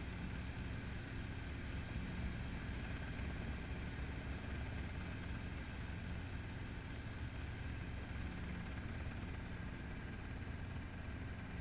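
Helicopter in flight: the engine and rotor make a steady, unchanging drone with constant low hums.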